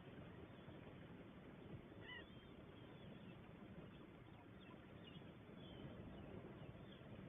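Faint, distant waterfowl calls, the clearest one about two seconds in, over a steady low rumble of background noise.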